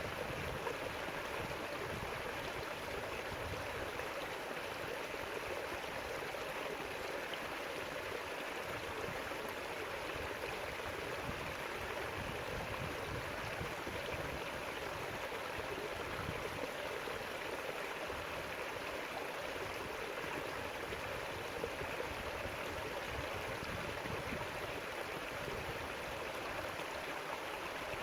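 River water flowing over rocks, a steady rushing and babbling without pause.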